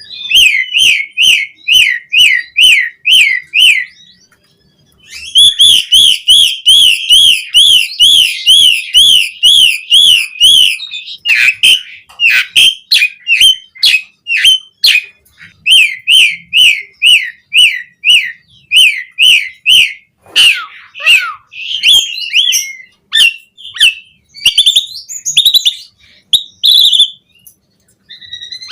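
Asian pied starling (jalak suren) singing loudly. It gives runs of quick, repeated whistled notes, breaks off briefly about four seconds in, then delivers a long fast series. After that come more varied notes and phrases.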